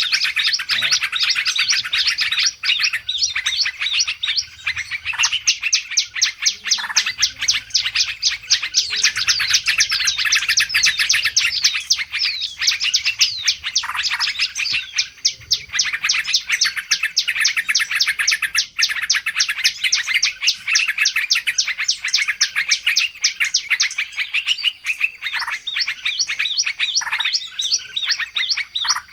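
A dense, busy chorus of many small birds chirping rapidly and without a break, high-pitched: a 'ribut' bird-lure recording, made to be played to draw wild birds in.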